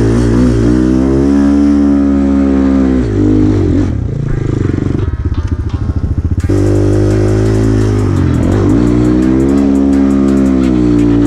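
Enduro dirt bike engine revving under way, its pitch climbing and then dropping twice, with a rougher, choppier stretch in between.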